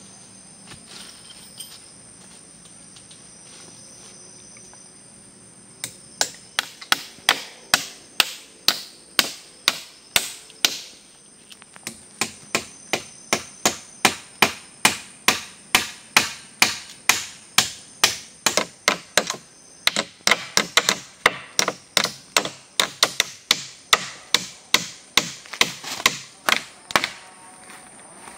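Nails being hammered into a wooden shelter frame: sharp blows about twice a second, starting about six seconds in, with a short pause near the middle. Insects hum steadily behind them.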